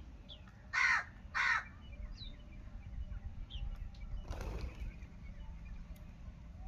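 Two short, loud bird calls about half a second apart, about a second in, followed around four seconds in by a fainter brief rustle.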